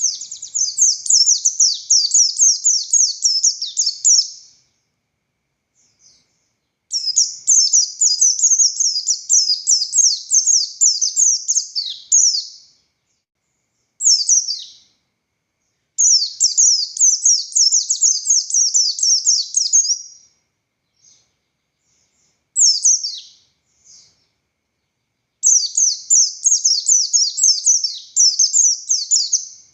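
A pleci buxtoni white-eye singing loud, fast twittering phrases of rapid high notes. There are four long bouts of about four to five seconds each, separated by short pauses, and a few brief single calls fall in the gaps.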